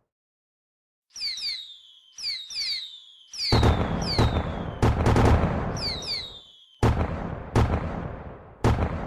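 Fireworks: whistling shells with whistles falling in pitch, and a rapid series of loud bangs, each dying away in a rumble. It starts after about a second of silence.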